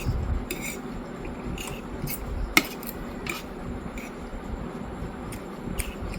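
Cutlery clinking against a dish during eating: a scattering of small clicks, with one sharp clink about two and a half seconds in.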